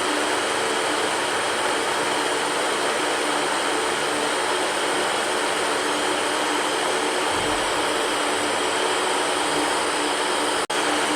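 Electric fan running steadily: an even rush of air with a faint hum. It cuts out for an instant near the end.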